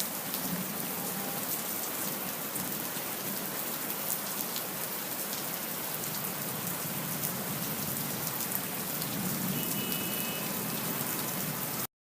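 Steady rain falling, a dense even hiss with scattered drop ticks, cutting off suddenly at the very end.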